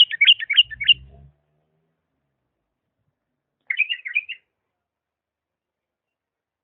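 Bulbul singing two short phrases of quick, warbling chirps: a rapid run that ends about a second in, and a shorter phrase about four seconds in. A faint low rumble sits under the end of the first phrase.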